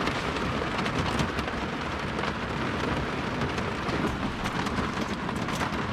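Steady rain falling on the van's roof, heard from inside the van: an even hiss with many small drop ticks.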